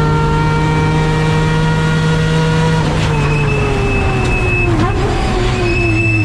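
A 20B three-rotor peripheral-port rotary engine in a Mazda RX-7 race car, heard from inside the car, holding high steady revs. About three seconds in it comes off the throttle and the engine note drops, then keeps falling gradually as the car slows, with a brief wobble in pitch. A thin high whine comes through once the engine note drops.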